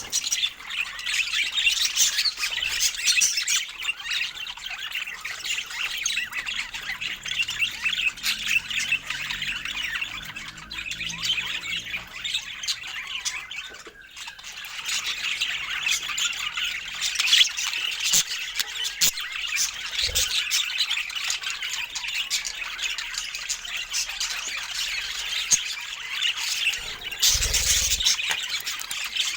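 Budgerigars chattering and squawking continuously in a rapid jumble of chirps and warbles, with a short dip about halfway through and a brief low thump near the end.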